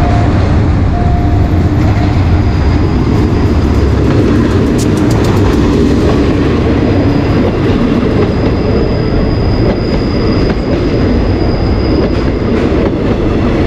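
State Railway of Thailand diesel-hauled passenger train pulling into the platform and passing close. A heavy low engine rumble passes in the first few seconds. The coaches then roll by with wheels clacking over rail joints and a faint thin squeal as the train slows to stop.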